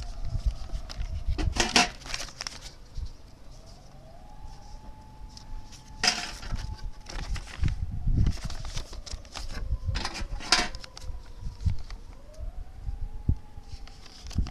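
Thin sheet-metal cookie tin clattering and scraping as it is handled and worked, with four or so sharp metallic clanks over duller knocks. A faint tone slowly rises and falls in pitch in the background.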